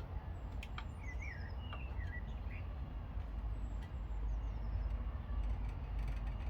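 Small birds chirping in short rising and falling notes, mostly in the first half, over a steady low outdoor rumble.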